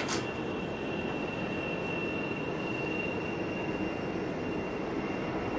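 Concorde's four Olympus 593 jet engines at takeoff power during its takeoff roll, heard at a distance as a steady rushing noise with a thin, high, steady whine over it.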